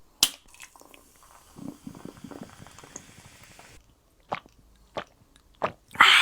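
Close-miked eating sounds from a bowl of sticky potato noodles: a few sharp clicks, soft wet stirring and chewing, then a loud crunchy bite near the end.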